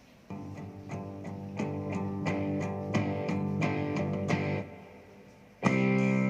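Guitar music played back through a small XM-5 Series Bluetooth speaker with a wood-grain cabinet. It starts a moment in, dies away a little past the middle, then comes back louder near the end.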